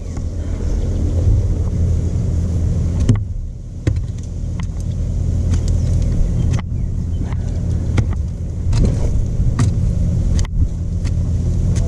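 Stump grinder's 13 HP Honda engine running steadily, picking up over the first second, with scattered sharp clicks and knocks throughout.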